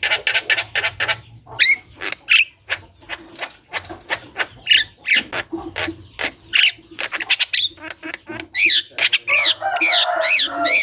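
Javan myna (jalak kebo) calling continuously: a fast string of harsh squawks and clicking notes, then near the end a run of repeated whistled notes that rise and fall in pitch.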